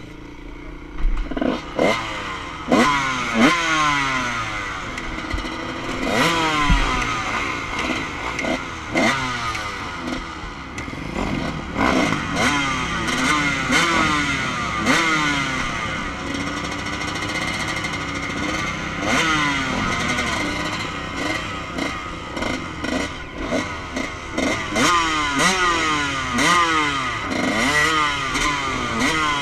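Motocross dirt bike engine revving hard and easing off again and again, its pitch climbing repeatedly and then dropping away, with frequent knocks and clatter.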